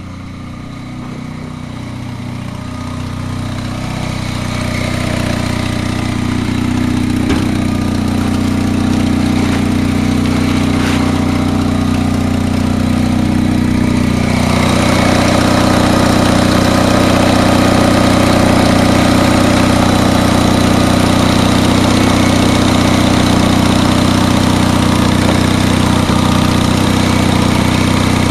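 Honda tractor's engine running steadily while it is moved. It grows louder over the first few seconds and becomes louder and fuller about halfway through.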